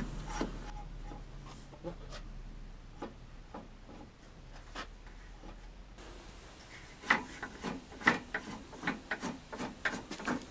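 Parts being handled on a table saw: scattered light clicks, knocks and rubbing, sparse at first and coming more often in the last few seconds.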